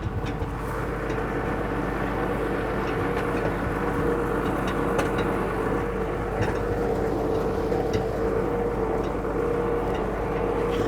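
Farm tractor engine running steadily as it pulls a hayride wagon, an even drone with a few light knocks over it.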